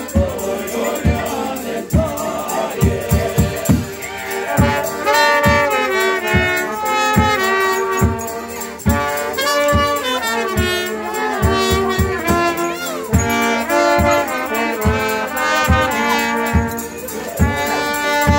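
Brass band music: trumpets and trombones playing a folk tune over a steady drum beat, the horns coming in strongly about five seconds in.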